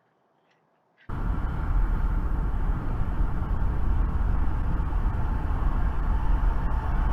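Steady rumble and road noise of a moving car, cutting in suddenly about a second in after near silence.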